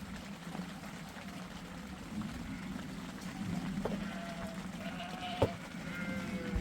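Sheep bleating a few times over a steady low background rumble, with one sharp knock about five seconds in.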